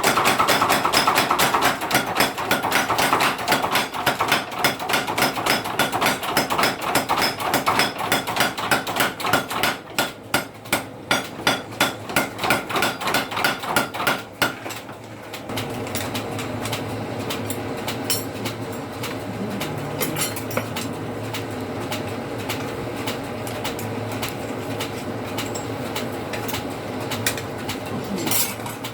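Blacksmith's hammer striking metal in a fast, even run of about three to four blows a second, growing lighter and stopping about halfway through. A steady mechanical hum then takes over.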